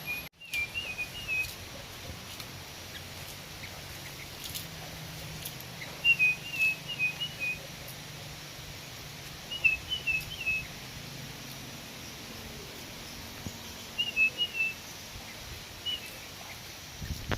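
Sooty-headed bulbul calling in five short clusters of quick chirping, whistled notes, over a faint steady low hum.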